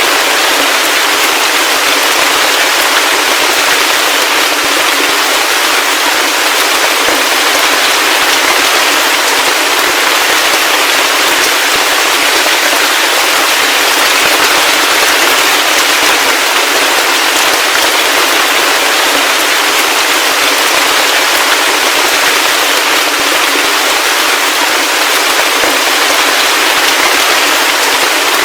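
Heavy rain falling steadily: a dense, even hiss of countless crackling drops, unchanging throughout, with almost no low rumble.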